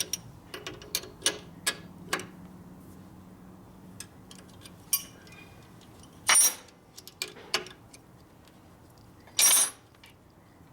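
Small metallic clicks and clinks of hand tools working a threaded stud into a motorcycle case, with two louder metal clanks in the second half.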